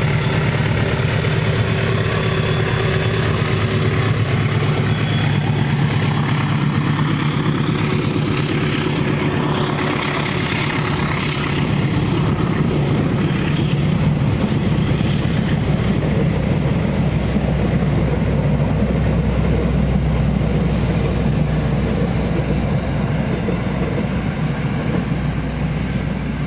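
Diesel-hauled passenger train passing: a steady low engine drone under the continuous rumble and clatter of the carriages' wheels on the rails.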